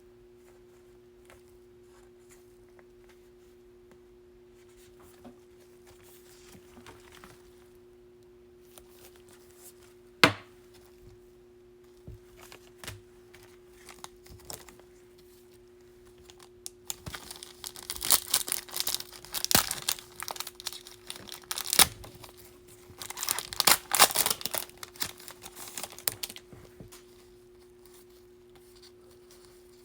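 Foil wrapper of a Bowman baseball card pack being torn open and crinkled, in loud crackling bursts through the second half, after a single sharp tap about ten seconds in. A faint steady hum runs underneath.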